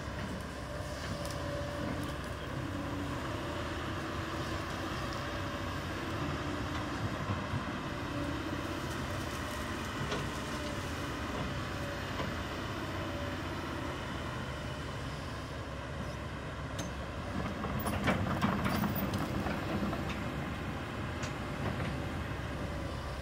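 Kobelco SK200 hydraulic excavator's diesel engine running steadily as it works, with a louder, rougher stretch of sharp clicks and knocks about 18 seconds in.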